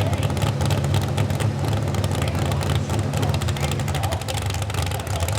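Competition pulling truck's engine running hard under load during a pull, with a steady, deep note that eases off about four seconds in.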